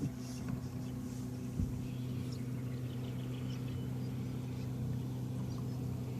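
Boat motor running at a steady, even hum, with a single low knock about one and a half seconds in.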